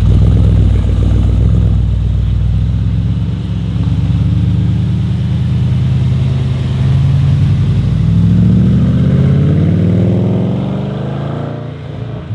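A tuned high-powered car's engine running at low revs, then rising steadily in pitch as it accelerates away, and fading out near the end.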